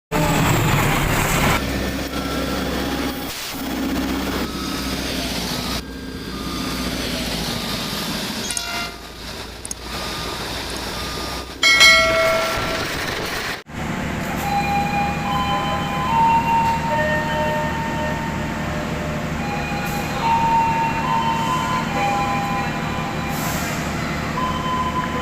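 Train sounds in a run of short cuts: rail and locomotive noise, with a train horn blowing briefly about twelve seconds in, then a steady rumble.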